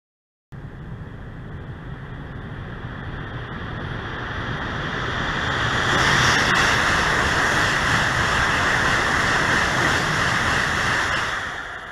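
ICE high-speed train passing: a rushing roar of wheels and air that builds over about five seconds, holds loud for about five more, then starts to fade near the end.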